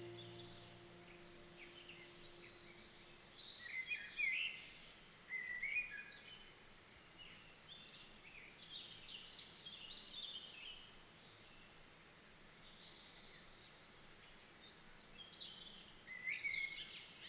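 Songbirds chirping and singing, many short high calls and trills overlapping, with the strongest phrases about four to six seconds in and again near the end. The last notes of background music fade out in the first few seconds.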